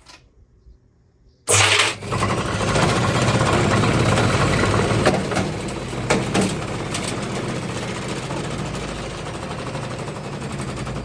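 Candy washing machine starting up about a second and a half in, then running loudly with a noisy rattling clatter from the drum and a couple of sharp knocks a few seconds later.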